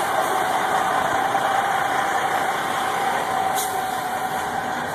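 Truck engine idling steadily: a constant running noise with a steady hum held on one pitch.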